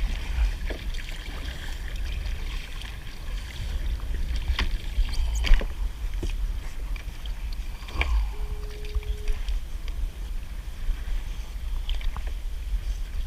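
Kayak on the water: paddling, with occasional short knocks and clicks over a steady low rumble.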